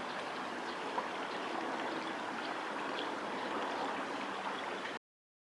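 Steady rush of flowing river water with a few faint high ticks over it; the sound cuts off abruptly near the end.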